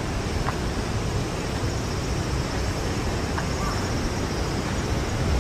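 Strong wind blowing steadily through trees ahead of a typhoon, a constant rushing noise with a heavy low rumble from wind on the microphone.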